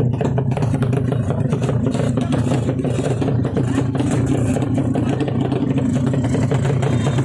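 Motorcycle engine running steadily at an even speed, with a rattly clatter and no revving up or down.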